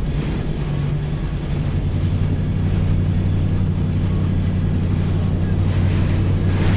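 Steady low drone of a car driving, heard inside the cabin: engine and road noise under an even rushing hiss of strong wind.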